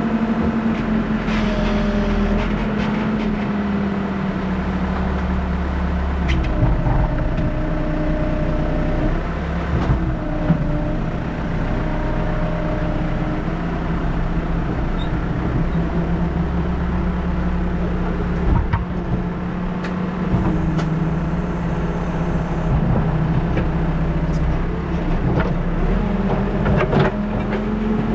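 New Holland backhoe loader's diesel engine running steadily while working, its pitch sagging and recovering several times as it is loaded. A few short knocks sound over it.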